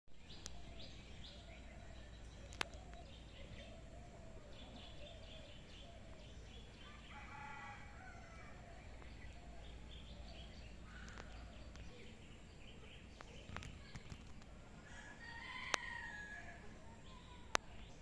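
Faint bird calls against a quiet outdoor hum, with two longer calls about seven seconds in and near the end. A few sharp clicks are the loudest sounds.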